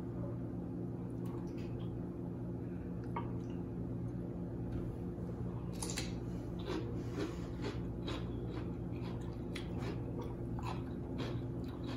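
Close-up crunching and chewing of a sauce-dipped slice of raw cucumber, with a run of crisp bites and crunches from about halfway through. A steady low hum runs underneath.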